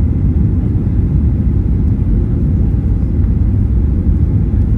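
Steady low rumble of cabin noise inside a Boeing 737-800 airliner, engines and airflow, with no change in level.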